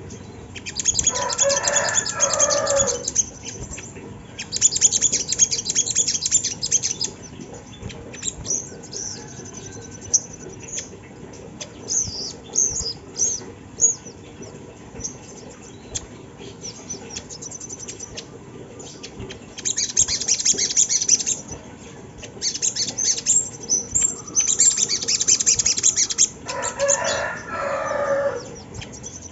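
Little spiderhunter (sogok ontong) calling: bursts of rapid, high chattering trills a few seconds long, with scattered short high notes between them and, twice, a lower repeated call.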